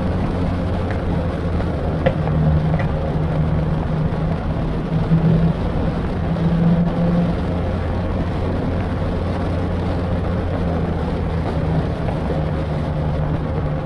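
1971 Opel Commodore A GS coupé's 2.8-litre straight-six running steadily while the car is driven, its low engine note swelling slightly a few times as the throttle changes, with a couple of faint clicks.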